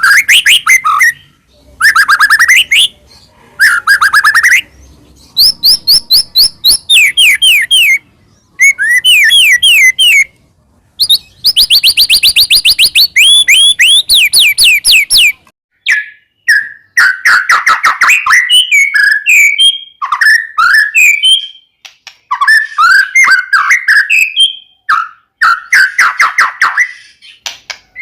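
White-rumped shama (murai batu) singing loudly in bursts of rapid sweeping whistled notes, a phrase every second or two. After about sixteen seconds the song turns into a denser, varied run of lower, jumbled notes.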